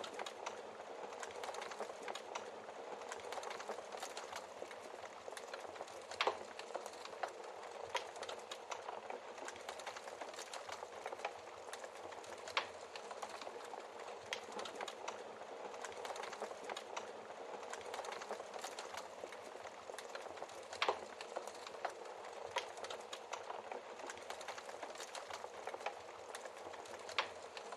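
Wood fire crackling steadily, with a few louder sharp pops from the burning logs.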